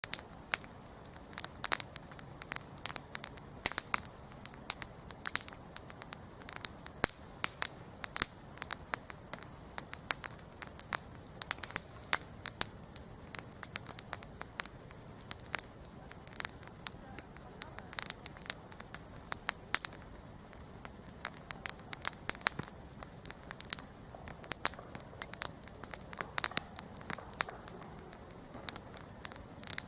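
Wood campfire burning and crackling: irregular sharp pops and snaps, several a second, over a soft steady hiss of flame.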